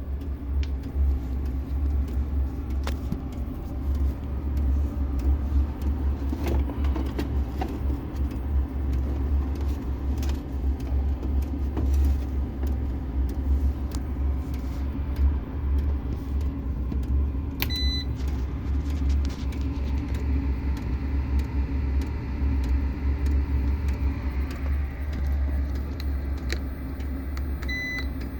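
Diesel air heater running with a steady low rumble and scattered light clicks. Two short high beeps come about ten seconds apart in the second half, typical of a UPS alarm sounding while it runs on battery.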